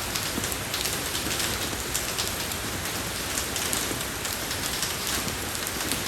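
Steady, soft rain falling on a road surface: an even hiss with many small, separate drop hits.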